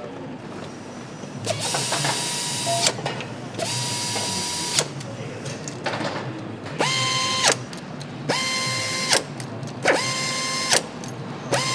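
Handheld power driver running bolts home during motorcycle engine assembly. It whirs in about six short bursts of roughly a second each. Each burst spins up to a steady whine and stops with a sharp click, the last one beginning near the end.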